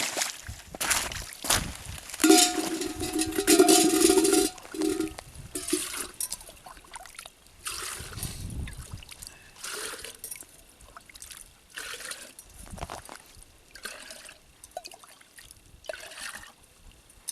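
Kettle being filled in a small brook: water pours and gurgles into it. The loudest, gurgling stretch runs from about two to five seconds in, followed by shorter splashes and sloshes.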